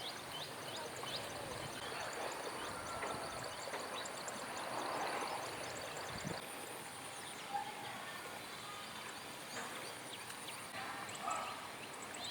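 Outdoor ambience of insects and birds: a steady high-pitched insect buzz with many short high chirps repeating over it.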